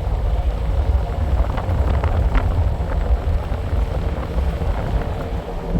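Vehicle on the move: a steady low rumble of engine and road, with a few light rattles about two seconds in.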